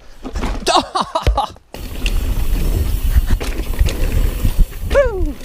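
Mountain bike riding fast down a dirt trail: a steady low rumble of wind on the microphone mixed with tyre and trail noise, with a short falling vocal exclamation near the end. It opens with a few brief voice sounds before a sudden cut into the riding noise.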